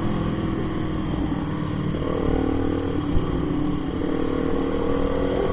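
Motorcycle engine running under way, its note stepping to a new pitch about two seconds in and again near four seconds, over a low rumble of wind and road noise.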